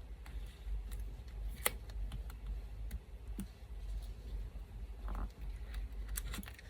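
Scattered small clicks and ticks of paper and scissors being handled at a desk, with a short paper rustle about five seconds in. A low steady hum from an electric fan runs underneath.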